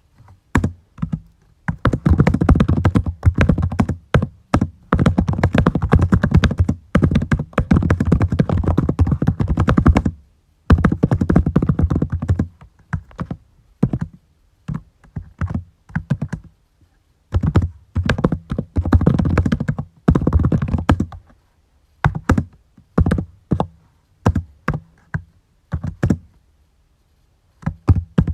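Typing on a computer keyboard: fast runs of keystrokes lasting a few seconds at a time, broken by short pauses, thinning to scattered single key presses in the last third.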